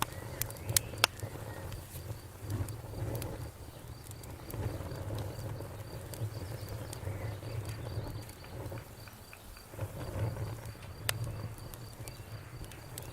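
Campfire burning with a low steady rumble and a soft crackle, broken by a few sharp pops, two about a second in and one near the end. A faint, even, high-pitched chirping runs underneath.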